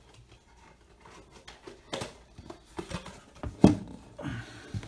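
Trading card packs and their cardboard box being handled: light rustles and a few taps and knocks, the loudest about three and a half seconds in.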